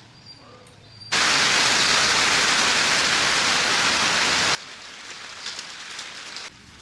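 A loud, steady hiss that switches on suddenly about a second in, holds even for about three and a half seconds, then cuts off suddenly.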